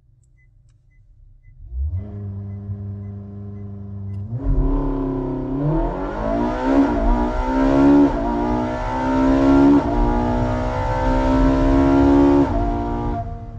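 Sports car engine starting about two seconds in and idling briefly, then accelerating hard: its pitch climbs and drops sharply several times as it shifts up through the gears, before fading out near the end.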